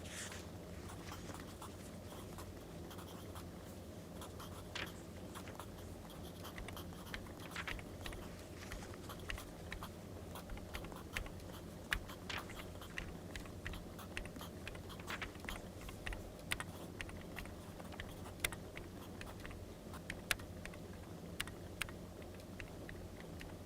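Wood fire crackling, with sharp irregular pops over a steady low rumble, along with pen-on-paper scratching.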